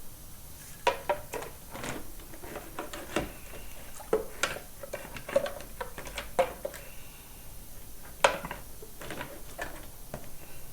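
Small metal engine parts clinking and knocking together as they are handled, in irregular clicks, some with a short metallic ring; the sharpest clank comes about eight seconds in.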